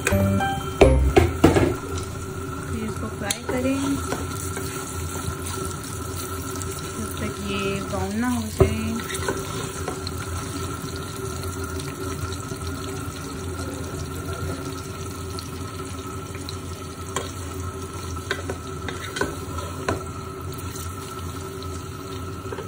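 Sliced bitter gourd sizzling as it fries in oil in a steel pot, stirred with a wooden spoon. A few louder knocks of the spoon against the pot near the start, and occasional clicks after that.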